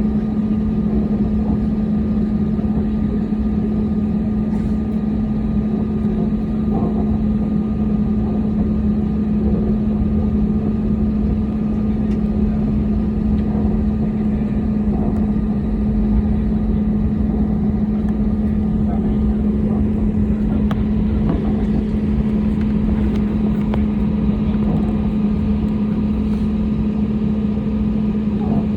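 Jet airliner cabin noise: a steady low rumble with a constant hum, the engines running at low power with no spool-up.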